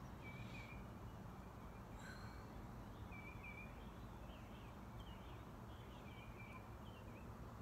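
Faint wild birds chirping, short calls recurring every second or so, over a steady outdoor background hiss.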